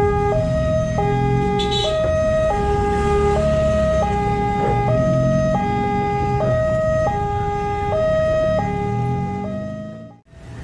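Indonesian level-crossing warning alarm sounding a steady two-tone hi-lo cycle, the tones switching about every three-quarters of a second, over the low rumble of engines. It cuts off abruptly shortly before the end.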